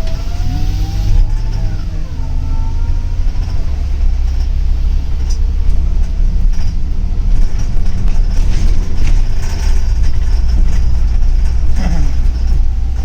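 Double-decker city bus under way, heard from inside the cabin: a steady low rumble of engine and road.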